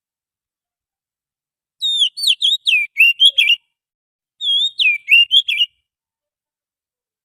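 Oriental magpie-robin (kacer) singing: two short phrases of quick whistled notes that slide up and down, each lasting about a second and a half, with a short pause between them.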